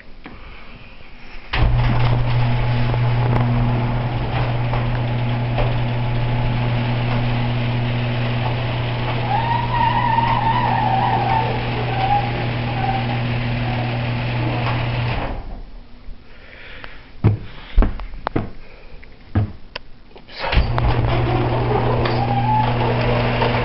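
Genie screw-drive garage door opener running with a steady hum for about 13 seconds, stopping with a few clicks and knocks, then starting again about 20 seconds in. Squeaks and rattles over the hum come from the door itself, not the opener.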